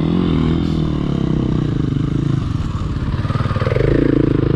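Dirt bike engine running, its revs rising and the sound getting louder about three and a half seconds in.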